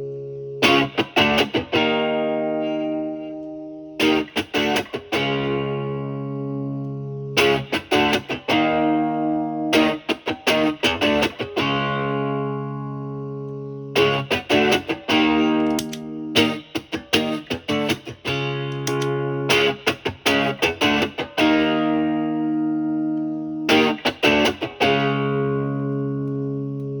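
Overdriven electric guitar: a Stratocaster with three single-coil pickups through a JHS Morning Glory v4 overdrive pedal in its more-gain mode, into a Marshall Valvestate's clean channel. Chords are struck in short, quick flurries of strums every few seconds, and each is left to ring and fade.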